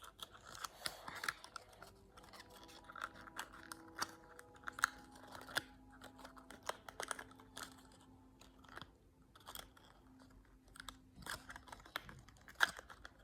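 Irregular small clicks, taps and crackles of small cardboard and plastic pieces being handled and pressed together close to the microphone.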